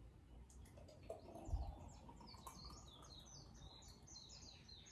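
Faint birdsong: a bird repeating quick, high, descending chirps over and over, with a soft low thump about a second and a half in.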